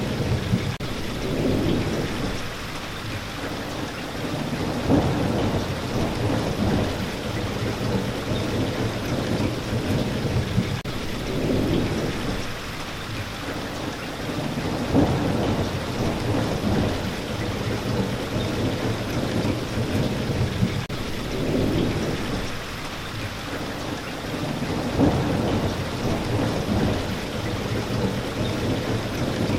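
Steady rain, with low rolling thunder that swells and fades about every ten seconds.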